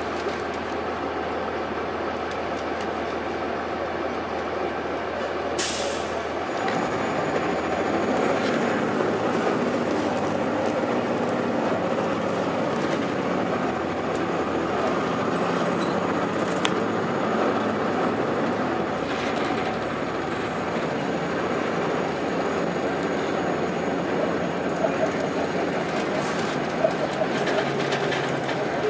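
Inside a 2002 Blue Bird transit bus: its Cummins ISC inline-six diesel and Allison automatic transmission running, with road and rattle noise. A short air hiss comes about six seconds in, after which the running noise gets a little louder.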